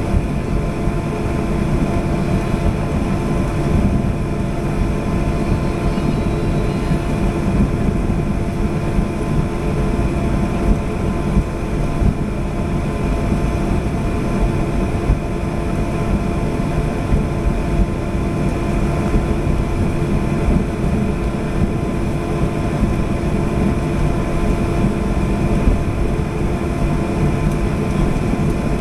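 Airliner engines and airflow heard inside the passenger cabin: a steady drone with a deep rumble and several constant hums on top.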